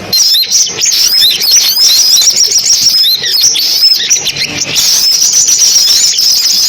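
Sunbirds calling: a dense stream of rapid, thin, high chirps and short downward-sweeping notes, with a steadier high trill near the end.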